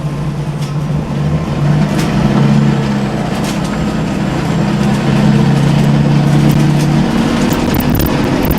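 Engine of a CNG-powered Scania L94UB city bus running under way, with a steady drone whose pitch shifts up and down and dips briefly about seven seconds in. Its sound is rough enough that it is called one of the worst-sounding buses, for no known reason.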